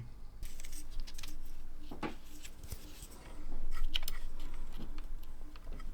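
Scattered small clicks, taps and clinks of tools and parts being handled at an electronics repair bench.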